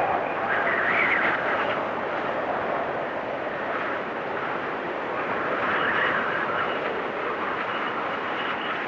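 Blizzard wind blowing steadily, swelling in gusts about a second in and again around six seconds.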